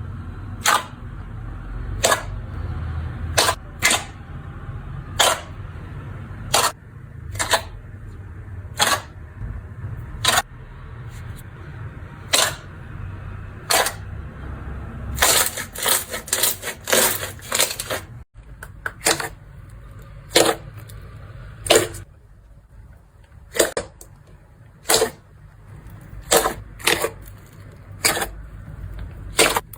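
Slime being pressed and squished, making sharp popping clicks about once every second or so, with a quick run of pops in the middle. A low rumble underlies the first half and stops partway through.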